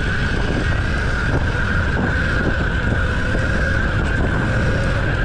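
Mini bike running at a steady speed with a constant whine, over low rumble and wind buffeting the microphone.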